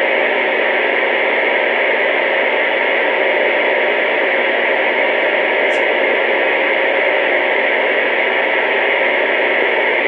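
CB radio speaker putting out steady, loud static hiss with a faint steady hum under it: an open channel with no one talking.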